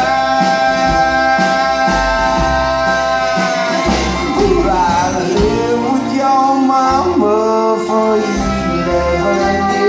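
Live country-style band playing an instrumental passage, with bass and guitar; a long note is held for the first few seconds before the melody moves on.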